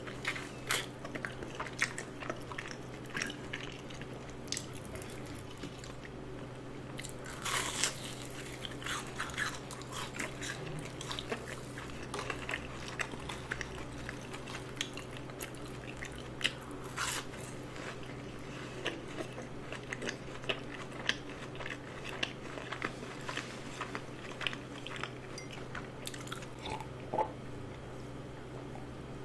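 Close-miked biting and crunchy chewing of crispy seasoned fried chicken, a steady run of crackling crunches with louder bursts about eight seconds in and again near seventeen seconds.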